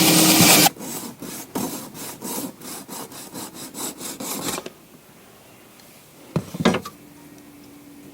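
A power tool cutting plastic runs loudly and stops under a second in. It is followed by about four seconds of quick, even scraping strokes, roughly four a second, on the cut plastic. A couple of light clicks come near the end.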